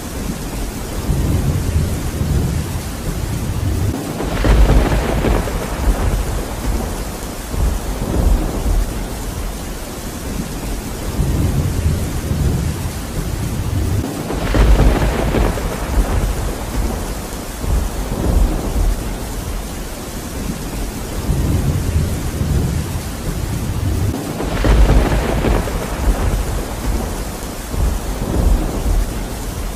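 Steady rain falling during a thunderstorm, with rumbles of thunder swelling up three times, about ten seconds apart.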